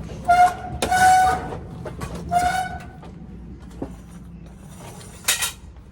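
Four short, high squeals, the first two close together near the start and the last a little after five seconds, over a low rumble.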